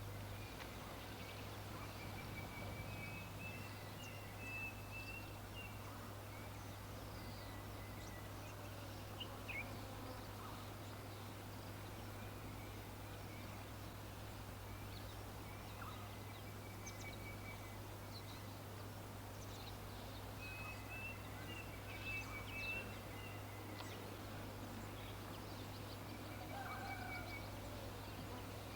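Birds calling: short runs of rapid high chirps, repeated every few seconds, with a few other brief calls, over a steady low hum and background noise.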